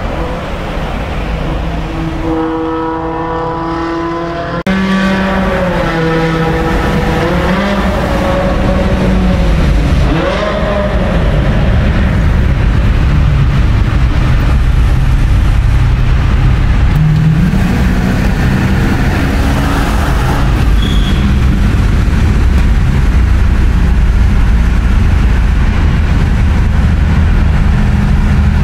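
Car engines running hard in a road tunnel, heard from inside a following car's cabin. A held engine note gives way about four to five seconds in to a sudden jump in loudness. The engine pitch then rises and falls for several seconds before settling into a steady, loud, low drone at speed.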